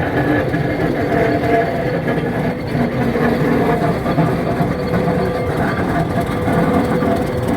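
Alco RS8 diesel-electric locomotive running during shunting: a steady loud engine drone with held tones, mixed with the rumble and rattle of rolling stock on the track.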